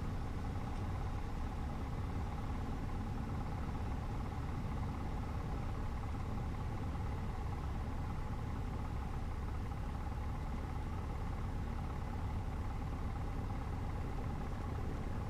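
Cessna 150's Continental O-200 four-cylinder aircraft engine idling steadily on the ground, an even low drone.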